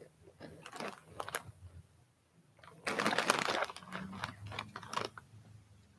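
Close-up chewing and crunching of crisp veggie chips: irregular crisp crunches, with a louder, denser crackling stretch about three seconds in.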